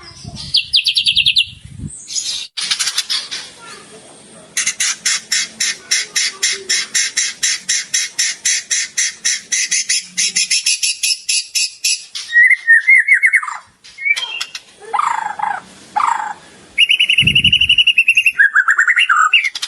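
White-rumped shama (murai batu) singing loud, varied whistled phrases, with a long run of fast repeated notes at about five a second through the middle of the song, the kind of mimicked song (isian) that is played to train other shamas. A few low thumps come near the start and near the end.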